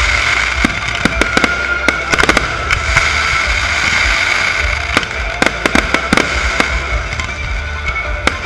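Fireworks display: many sharp bangs and crackles of bursting shells, in quick clusters about a second in and again around five to six seconds in.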